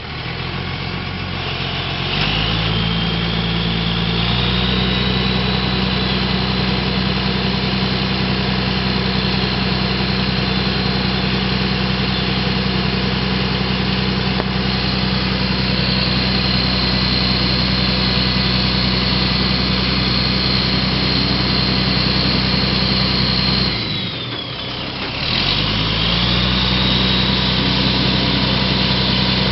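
Crane truck's engine running, stepping up to a higher speed about two seconds in and holding there, with a high whine that rises and falls with it. Near the end the engine speed drops sharply for about a second, then climbs back up.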